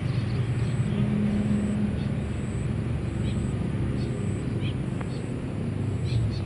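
Train crossing a steel truss railway bridge, heard as a steady low rumble and drone. Faint high chirps come through now and then.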